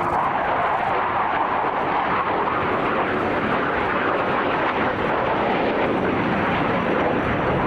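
Eurofighter Typhoon jet engines running at display power: a steady, loud roar with no distinct tone.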